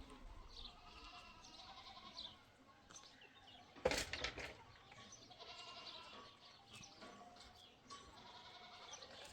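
Flock livestock bleating, with several wavering calls overlapping. A sharp knock or clatter comes about four seconds in.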